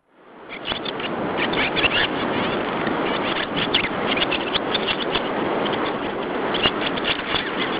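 Many small birds chirping and chattering at once in a dense chorus, fading in over the first second.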